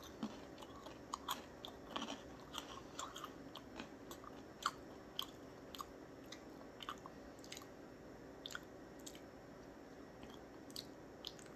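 A person chewing a small round unsalted pretzel: quiet, crisp crunches, frequent in the first few seconds and thinning out toward the end.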